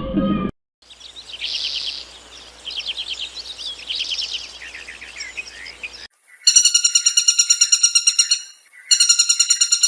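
A songbird singing in short trilled phrases. After a cut, a different loud, high-pitched call repeats in rapid even pulses, about ten a second, in two runs.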